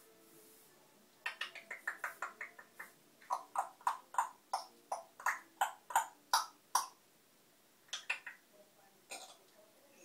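African parrot making a string of short, sharp pops: a quick run of about seven just over a second in, then a steadier run of about a dozen at roughly three a second, and a few scattered ones near the end.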